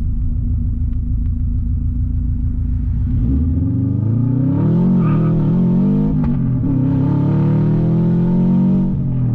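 Subaru wagon's turbocharged flat-four engine running through an open 3-inch catless downpipe with no muffler: a steady low drone, then the revs climb from about three seconds in as the car accelerates, with a brief dip in revs just before the end.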